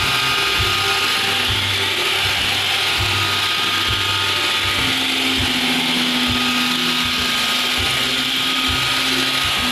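iRobot Roomba 560 robot vacuum running a cleaning cycle: a steady whir from its vacuum motor and brushes, with an uneven low rumble beneath.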